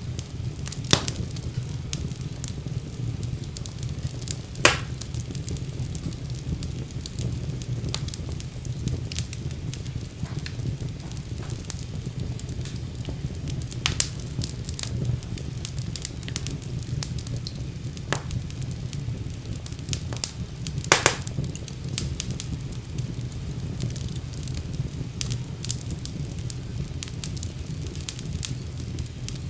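Wood fire burning in a fireplace: a steady low rumble of flames with irregular crackles, and a few louder pops, the loudest about a second in, near 5 s, 14 s and 21 s.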